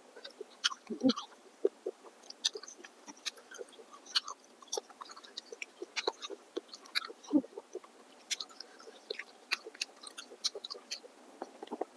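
Close-up mukbang chewing of soft, chewy noodles: irregular wet mouth clicks and smacks. Two fuller, lower sounds come about a second in and again past the middle.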